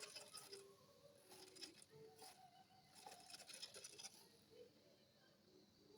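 Faint, short whirs of a small RC model servo driving the rudder back and forth several times, with light clicks in between.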